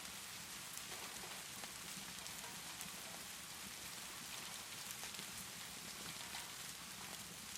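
Steady rainfall, a constant even hiss, with scattered small clicks and crackles from a wood fire.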